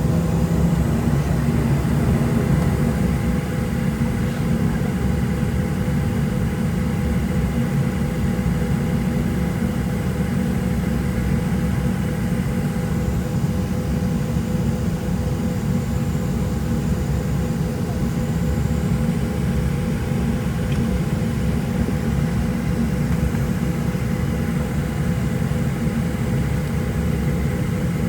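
Cabin noise inside a Boeing 737-700 with its CFM56-7B engines running at low, steady power: a steady rumble with a constant engine whine on top.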